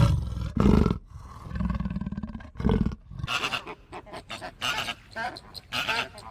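A large wild animal roaring in a few deep, rough calls, followed about three seconds in by a run of quick, high chirping calls.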